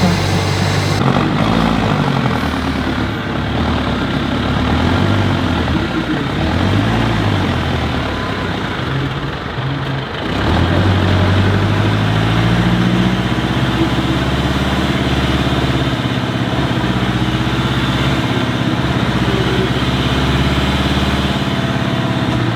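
Heavy truck engine running, its pitch rising and falling with the throttle for the first half, then holding a steadier, louder note from about halfway on.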